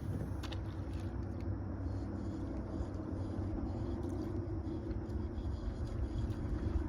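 Small boat motor running steadily with a low, even hum.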